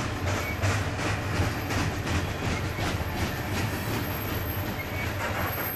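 Freight train of covered grain hopper cars rolling past, a steady low rumble with repeated clicks of steel wheels passing over rail joints.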